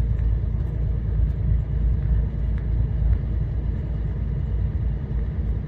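Truck engine and road noise heard from inside the cab: a steady low rumble while driving.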